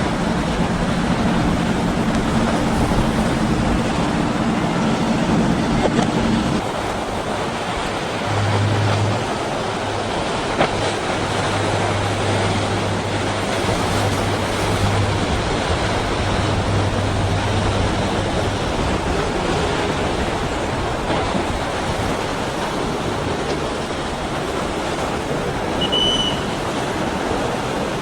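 Motorboat engines running low under a steady wash of waves and wake. One engine hum stops about six seconds in, and a lower one follows for about ten seconds.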